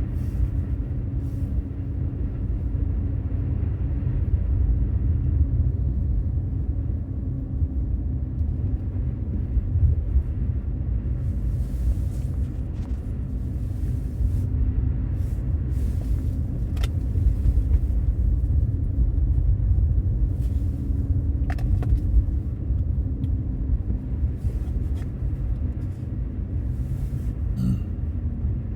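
Infiniti Q50 Red Sport 400 driving at a steady pace: a steady low rumble of engine and road noise with an even drone, and a few faint ticks here and there.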